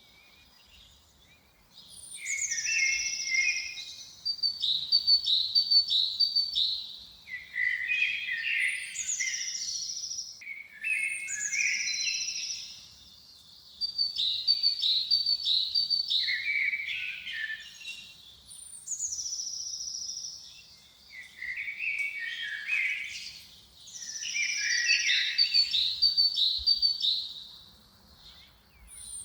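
A songbird singing the same phrase over and over, about five times, with short pauses between. Each phrase opens with a high note sliding down, then a quick run of bright notes and lower warbling.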